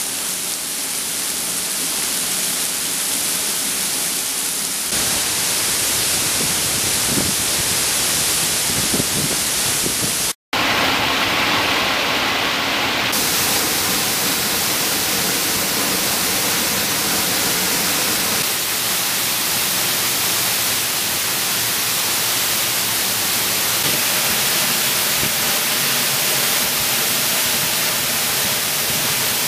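A 51-foot waterfall in flood: a loud, steady rush of falling water, broken once by a split-second cut to silence about ten seconds in.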